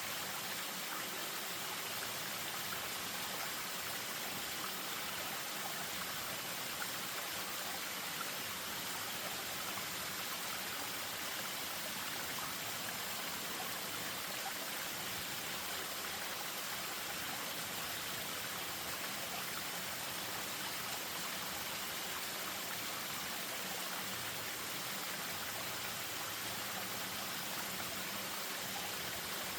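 Spring-fed stream running over a small waterfall in a steady rush of water, with a finer trickle in it.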